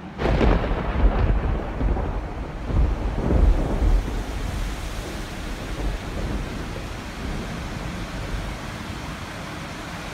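A thunderclap breaks in suddenly and rolls on in a low rumble, swelling again about three seconds in, then dies away into a steady hiss of rain.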